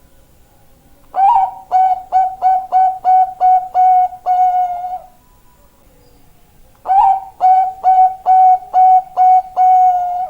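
Zebra dove (Bangkok perkutut) singing two phrases about six seconds apart. Each phrase is an opening note followed by a run of about seven quick, evenly spaced coos that ends on a longer held coo.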